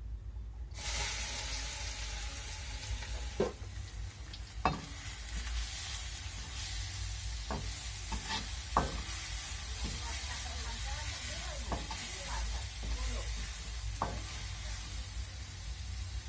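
Chopped shallots hitting hot oil in a wok: a steady sizzle starts suddenly about a second in and keeps going as they fry. A spatula knocks against the pan now and then while stirring, about six times.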